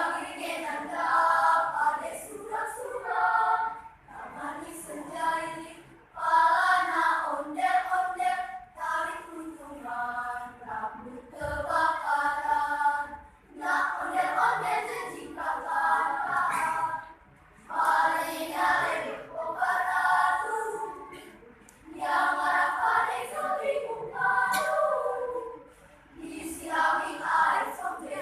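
A choir singing, in phrases of a few seconds with short breaks between them.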